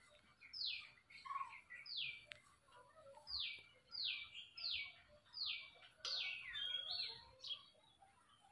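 A bird calling repeatedly outdoors: a run of about nine short notes, each dropping sharply in pitch, coming closer together toward the middle, with fainter chirps of other birds around them.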